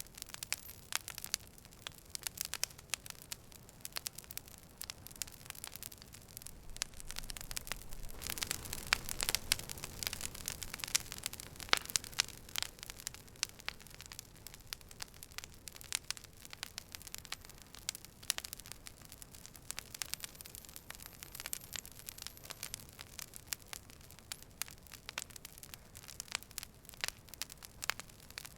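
Campfire of burning wood crackling: a dense, irregular run of sharp pops and snaps over a low rush, which swells louder for a few seconds in the middle.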